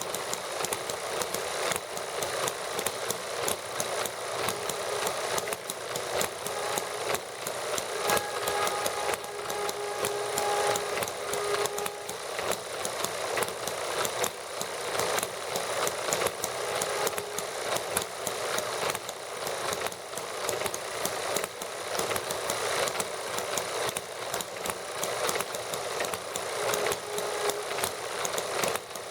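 Small model gasoline engines running together: a fast, steady clatter of tiny firing strokes and valve clicks. A faint high tone rises out of it for a few seconds about a third of the way in, and again briefly near the end.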